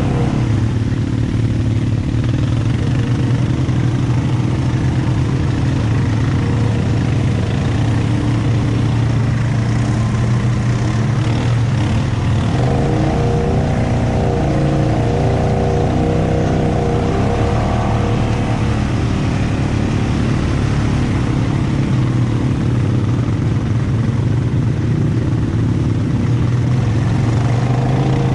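ATV engine running steadily under load, rising in revs for several seconds midway and then settling back.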